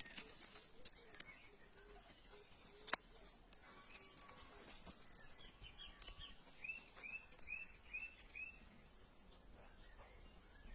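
Quiet rural outdoor ambience with birds: a bird gives a run of five quick, evenly spaced chirps about two-thirds of the way in. A few soft clicks are heard, and there is a single sharp tap about three seconds in.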